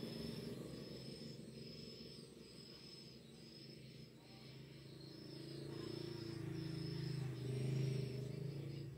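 Swiftlet call-sound playback: short high chirps repeating evenly, a little over one a second, over a low droning sound that grows louder in the second half.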